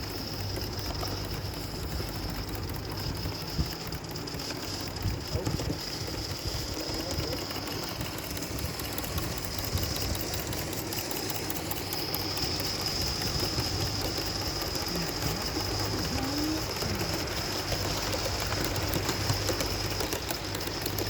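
Gauge 1 live-steam model locomotive, the Black Prince, running on a garden railway: a steady hiss of steam with fine rapid ticking and a high steady tone that drops out for a few seconds in the middle.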